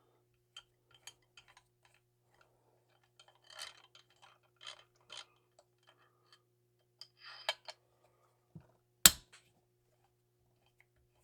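Hand tools and small metal chainsaw parts being handled during a teardown: scattered light clicks and clatters, with one sharp knock about nine seconds in, over a faint steady hum.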